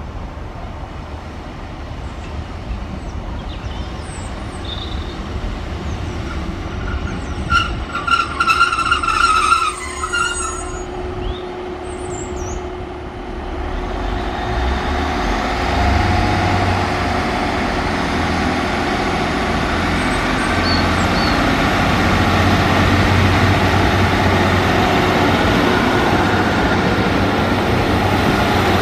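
Northern Class 150 diesel multiple unit approaching and running past the platform, its rumble and wheel noise building from about halfway through and staying loud. A short high-pitched tone sounds about eight seconds in.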